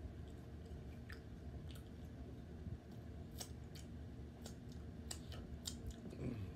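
A person chewing food close to the microphone: wet mouth sounds with a run of sharp, crunchy clicks in the second half.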